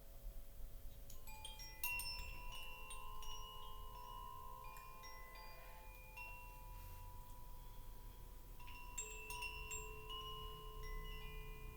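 Chimes shaken in two clusters, many high metal tones of different pitches struck in quick succession and left ringing.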